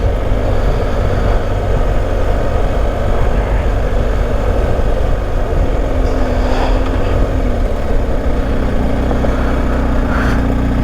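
BMW GS Adventure motorcycle's boxer-twin engine running under road noise, its note settling into a steady hum for the last few seconds.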